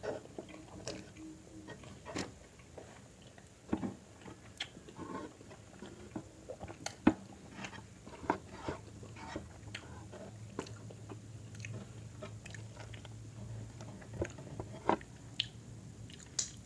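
Close-miked eating: a person chewing and biting food, with many irregular short clicks and mouth smacks.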